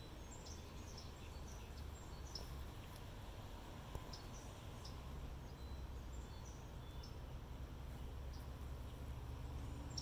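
Outdoor ambience: many short, high bird chirps scattered throughout over a low, steady rumble.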